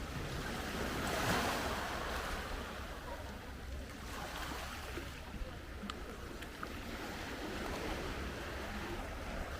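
Black Sea waves washing onto the shore, one swell of surf about a second in and a softer one around four to five seconds, with wind rumbling on the microphone.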